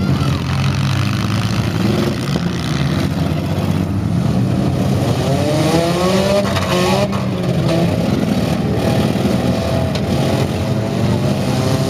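Engines of demolition-derby minivans and mini trucks running hard and revving, their pitch climbing and falling again and again, mostly in the second half.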